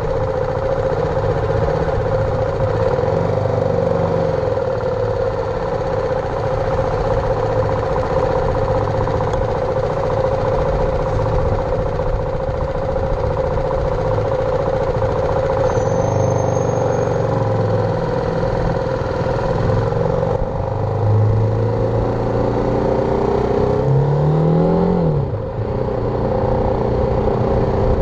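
BMW G310R's single-cylinder engine running while the motorcycle is ridden, with a steady noise over it; near the end the engine note rises and falls as the revs change.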